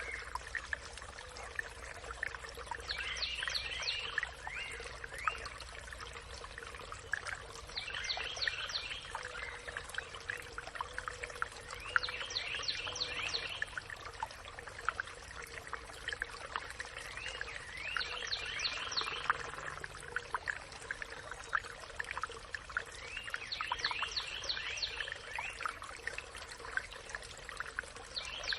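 Forest birdsong: one bird repeats a short, fast phrase of quick descending notes about every five seconds, over a background of other birds' chirps.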